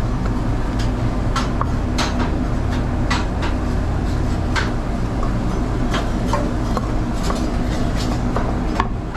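Knife chopping through grilled teriyaki chicken on a cutting board: irregular sharp knocks, about two a second, over a steady low hum, fading out at the end.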